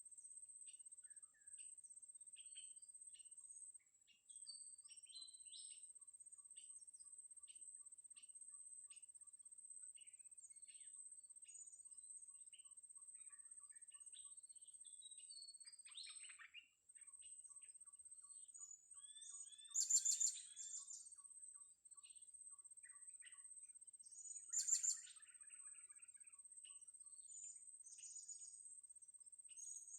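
Blue-crowned hanging parrots (serindit) calling: many faint scattered chirps, with three loud, shrill bursts of high-pitched calls in the second half. A steady high thin whine runs behind them.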